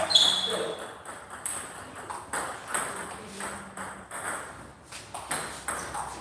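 Table tennis rally: a celluloid-type ball clicking off the rackets and the table in a run of light, sharp ticks. A brief high squeak sounds near the start.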